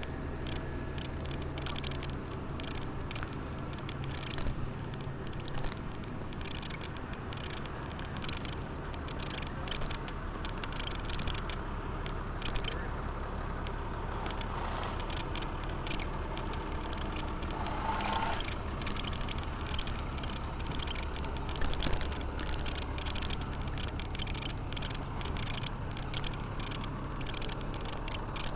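Rapid, irregular clicking and rattling from a bicycle being walked: the freewheel ticks as the wheel rolls and the handlebars rattle. A low steady hum runs underneath.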